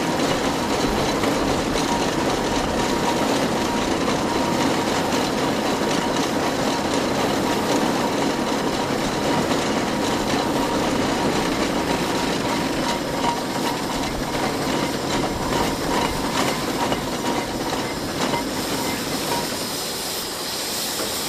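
John Fowler BB1 steam ploughing engine working, winding in its cable to haul the cultivator back: a steady mechanical clatter.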